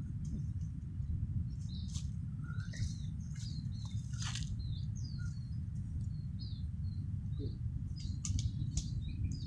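Small birds chirping, with many short high calls and quick down-slurred notes, over a steady low rumble. A few brief rustles of leaves and branches from someone climbing through the tree.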